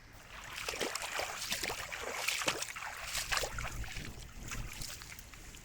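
Water splashing and sloshing in quick, irregular bursts, loudest in the middle and tailing off near the end.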